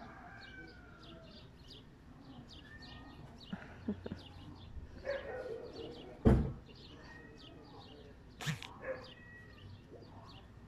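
Birds chirping over and over, with a loud thump about six seconds in and a sharp click about two seconds after it.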